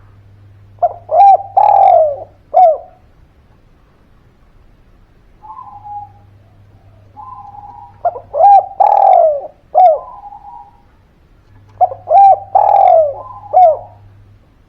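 Spotted dove (derkuku) cooing. It gives three phrases, each a few short coos around one longer drawn-out coo.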